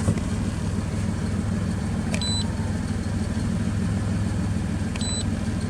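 2005 Toyota Highlander's V6 engine idling steadily while it is throwing multiple misfire codes (cylinders 2 and 6). Two short high electronic beeps sound over it, about two seconds in and again near the end.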